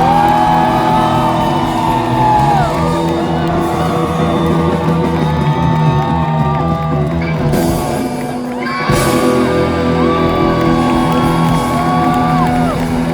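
Live rock band playing loud, with long held lead notes that bend in pitch over a steady bass and drums; the sound briefly drops about eight and a half seconds in before the band comes back in full.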